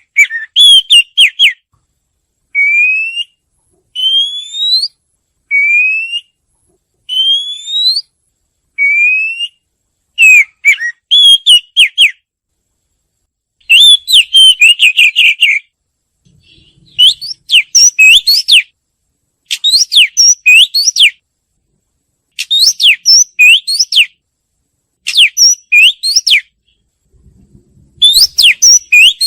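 Oriental magpie-robin singing loudly. It gives a run of five clear whistles, each rising in pitch, about one every second and a half, then switches to quicker, varied phrases of rapid up-and-down notes, repeated in short bursts with pauses between.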